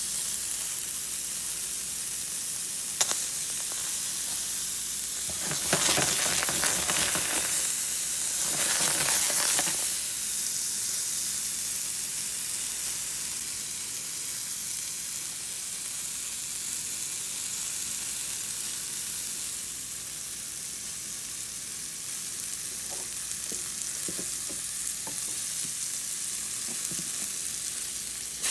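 Butter, diced pears and blackberries sizzling in a stainless steel sauté pan, a steady hiss that grows louder twice, about six and nine seconds in. One sharp click about three seconds in.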